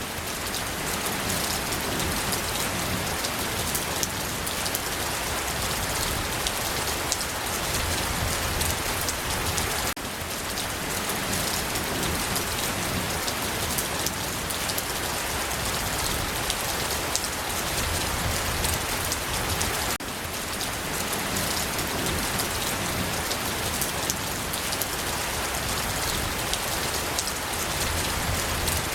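Steady rain falling, an even hiss with fine drops ticking on a surface, and a brief dip in level about every ten seconds.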